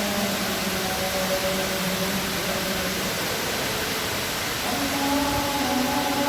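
Steady rush of the indoor waterfall's falling water, with a call to prayer (azan) sung in long, held phrases over it: one phrase dies away about halfway through, and the next begins near the end.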